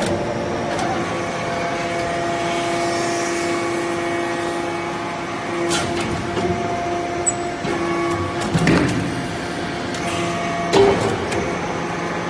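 Shaving baler machine running: a steady motor hum, with a few sharp knocks and clanks along the way.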